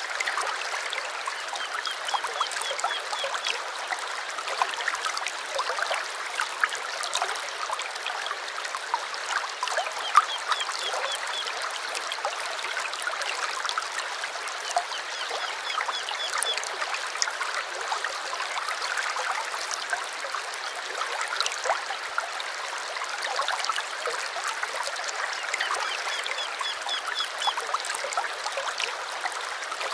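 Stream water trickling and splashing steadily, with a bird calling three times in a quick run of short repeated high notes.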